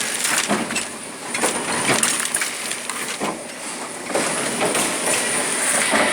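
SUGANO die-cutting press running, with a continuous mechanical clatter and repeated knocks about once a second as it cycles.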